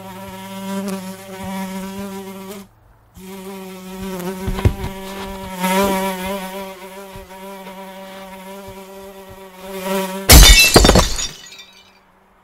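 A housefly buzzing in flight, its hum wavering in pitch and breaking off briefly about two and a half seconds in. A few dull thumps come around four and a half seconds in. Near the end the loudest sound is a crash and clatter of glassware as a shoe hits a shelf of glasses and bottles.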